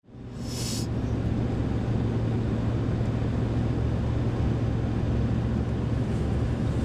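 A car driving: a steady low drone of engine and road noise, heard from inside the cabin. There is a brief hiss about half a second in.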